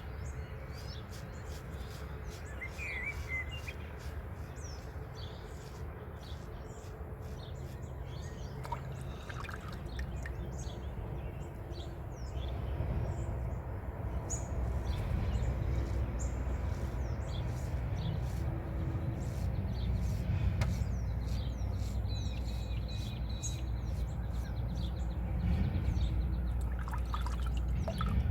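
Dawn bird chorus: many short chirps and calls from several birds, over a low rumble that grows louder about halfway through.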